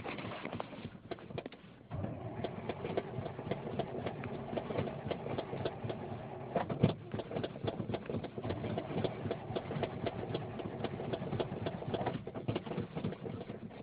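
Starter cranking a cold rebuilt 454 big-block V8 in a 1978 Chevy half-ton truck, turning the engine over in an even, rapid rhythm without catching: a hard start in freezing weather. A short first burst of cranking breaks off about two seconds in before a long one.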